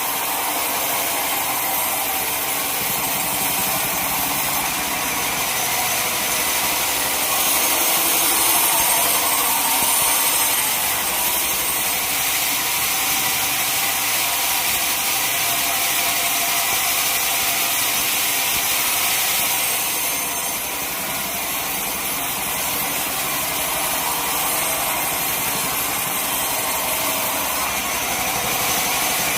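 Sawmill saw cutting through a teak log, a steady high, hissing cut with a constant machine whine beneath, swelling slightly about a quarter of the way in and easing briefly about two-thirds through.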